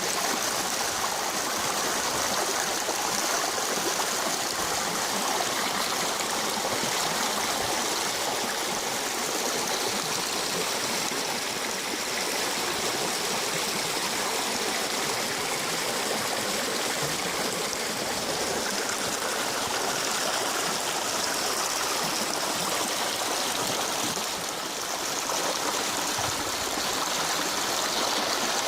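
A river swollen by heavy rain, its fast water rushing steadily.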